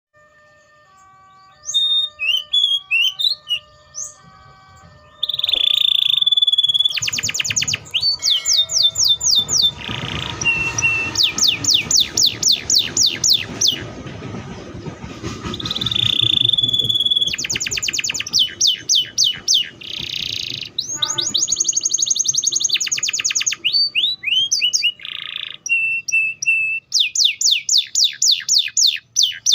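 Domestic canary singing: long rolling trills of rapidly repeated sweeping notes, broken by held buzzy notes, with a few short pauses.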